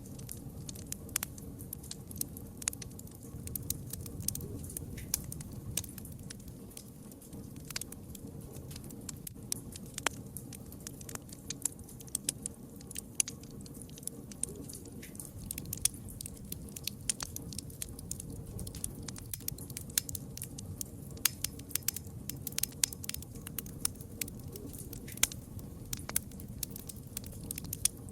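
Fire crackling: many irregular sharp snaps and pops over a steady low rumble.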